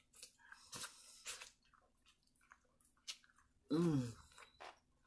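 Biting and chewing corn on the cob: short crunchy clicks of kernels being bitten off the cob, then a short hum of the voice about four seconds in.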